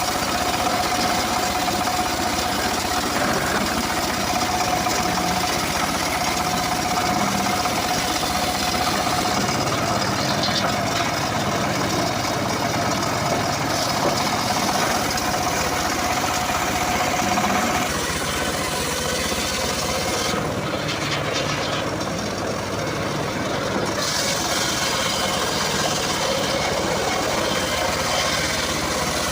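Homemade engine-driven circular sawmill running steadily. A steady whine sits over the machine noise and drops lower about two-thirds of the way through.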